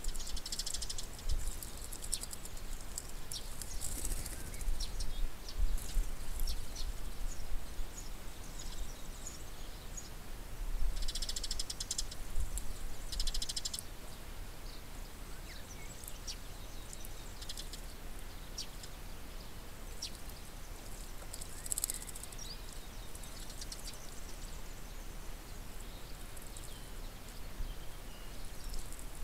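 Birds chirping and clicking: short high calls scattered throughout, with two brief rapid rattles near the middle, over a low rumble.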